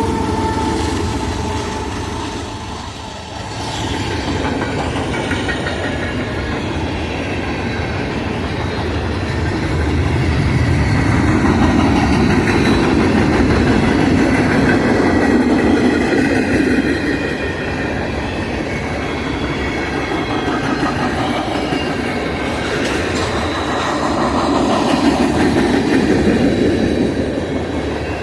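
A long Union Pacific freight train's cars rolling past, wheels clicking over the rail joints in a continuous rumble that swells louder around the middle and again near the end.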